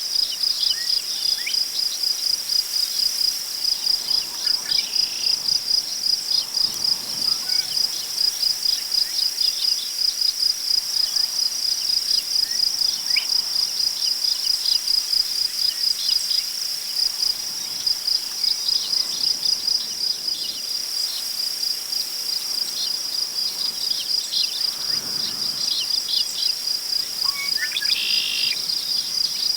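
Crickets chirping in a steady, fast, even pulse, with a few short bird calls, the clearest near the end, and soft swells of wind rustling through tall prairie grass.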